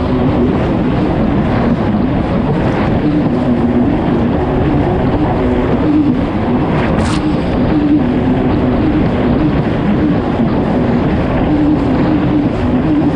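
Kawasaki STX 160 jet ski's four-stroke engine running hard at race speed, its note rising and falling over a constant rush of wind and water spray.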